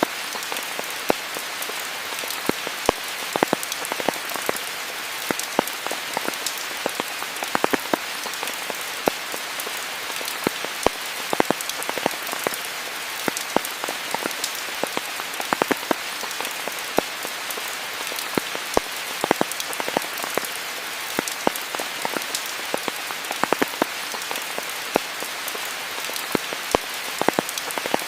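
Steady rainfall: an even hiss with many individual drops striking close by as sharp, irregular ticks.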